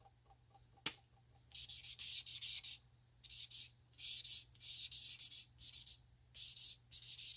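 Marker tip scribbling across glossy photo paper in repeated short strokes, each lasting about half a second to a second, with one sharp click about a second in.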